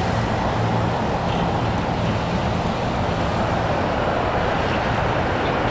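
Airliner jet engines and airframe heard from inside the cabin during takeoff, a steady rush of noise with a low drone under it.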